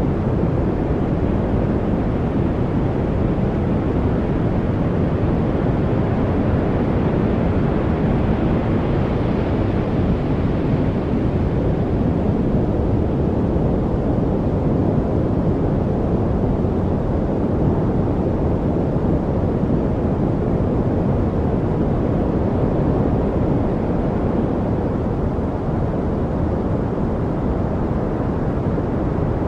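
Steady masking noise, deep and even, strongest in the low range and thin at the top, with no separate events; it brightens slightly for a few seconds about ten seconds in.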